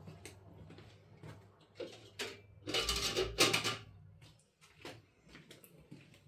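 Irregular knocks, clicks and clatter of hard objects being handled, loudest in a busy stretch about three seconds in.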